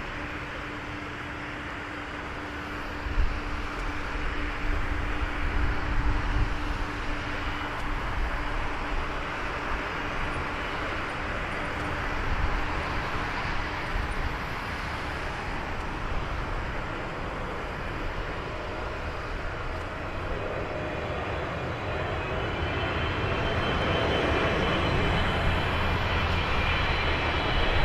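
Boeing 777-300ER's GE90 turbofan jet engines on approach: a broad rumble and hiss that grows louder over the last several seconds as a high engine whine comes in. A brief knock about three seconds in.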